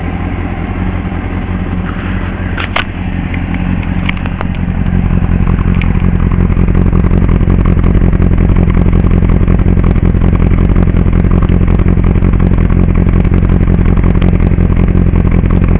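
Honda CBR600RR inline-four engine idling through a Mugen slip-on exhaust, a steady low note. A few sharp clicks come in the first few seconds, then the sound grows louder about four to five seconds in and stays steady.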